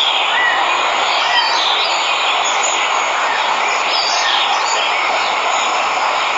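Waterfall rushing in a steady roar, with birds chirping here and there over it.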